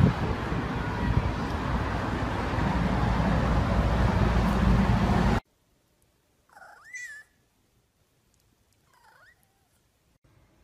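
A steady rushing noise for about the first half, which cuts off suddenly. Then a domestic cat meows twice: one short meow that rises and falls, and a fainter one about two seconds later.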